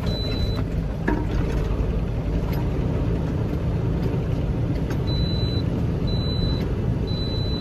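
Semi-truck diesel engine running steadily, with a high electronic warning beep that sounds once at the start and then repeats about once a second, each beep about half a second long, from about five seconds in.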